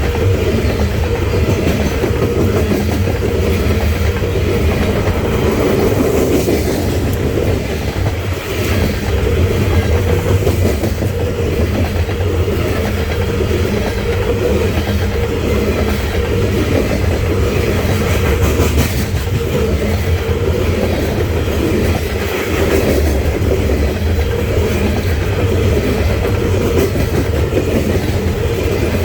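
Coal train rolling past: a steady heavy rumble of steel wheels on rail, with repeated clicking as the wheels cross rail joints.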